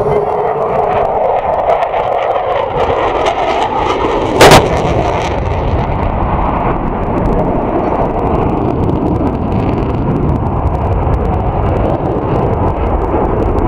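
Military jet aircraft engine noise from a display flight, a loud continuous rumble whose pitch glides in the first few seconds as the jet passes. About four and a half seconds in there is a single very loud sharp bang.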